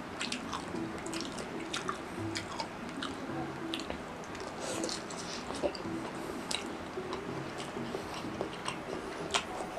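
Close-up, wet chewing and biting sounds of someone eating meatballs in spicy sauce: irregular smacking and squelching mouth clicks, over soft background music.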